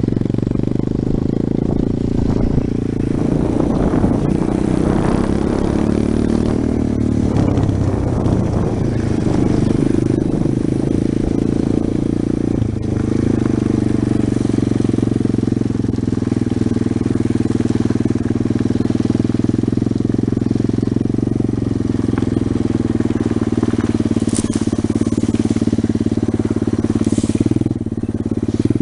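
110cc pit bike's single-cylinder four-stroke engine running steadily, its low engine note unbroken throughout. Between about three and ten seconds in, a rougher, harsher layer sits over the engine note.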